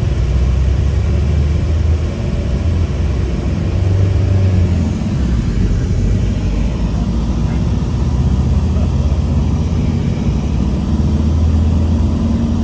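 Steady, loud, low rumble of a moving vehicle heard from inside, with a faint hum that rises slightly in pitch near the end.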